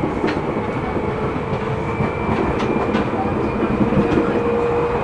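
Running noise inside a Seibu New 2000 series electric commuter car at speed: a steady rumble of wheels on rail with scattered rail-joint clicks and a thin whine that slowly rises in pitch. One of the car's wheels is flat, which puts a flat-wheel knock into the running sound.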